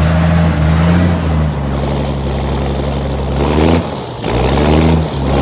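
Diesel engine of a 1970 deuce-and-a-half Army truck running just after a cold start with no glow plugs, its speed changing: it drops about one and a half seconds in, dips briefly about four seconds in, then picks up again.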